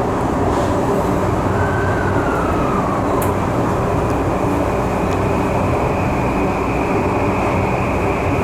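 Tokyu 3020-series electric train running, heard from inside the car: a steady rumble with an electric whine. One whine tone glides down about two seconds in, then a higher tone holds steady from about three and a half seconds on.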